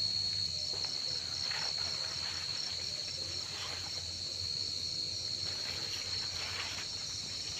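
Wild crickets calling close together: one steady, high-pitched trill with a second cricket's call pulsing just above it at about three chirps a second.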